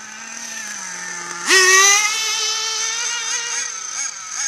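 OFNA RC buggy's oversize nitro two-stroke engine running at a low, slightly falling pitch. About a second and a half in it revs up sharply, then holds a high, fairly steady pitch.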